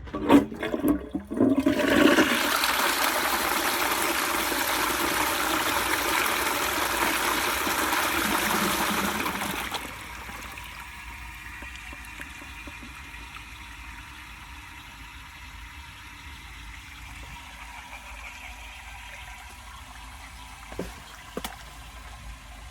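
W & J Lawley 402 cast iron cistern flushing: a few knocks of the mechanism at the start, then a loud rush of water for about eight seconds. The rush drops off suddenly to a quieter steady hiss as the cistern refills.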